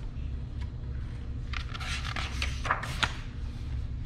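A few brief papery swishes and rustles about halfway through, as book pages are turned, over a steady low hum.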